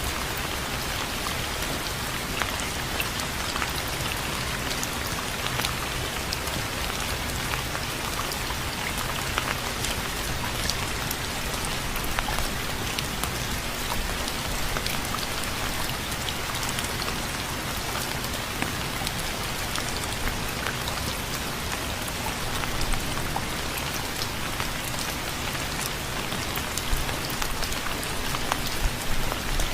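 Steady rain falling on a surface, with a dense patter of individual drops ticking over a constant hiss.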